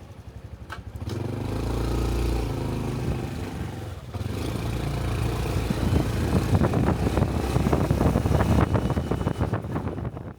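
Small single-cylinder Honda Cub 125 motorcycle engine running, heard from the rider's helmet: a steady low engine note for the first few seconds, then a brief drop about four seconds in, after which it runs louder and choppier.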